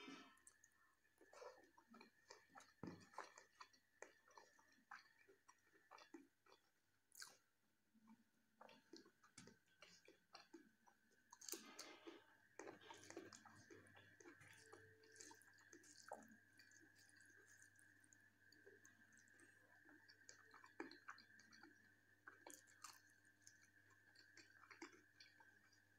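Faint chewing and mouth sounds of someone eating rice and jackfruit curry, with soft irregular clicks and squishes, a little busier about halfway through. A faint steady high-pitched tone runs underneath.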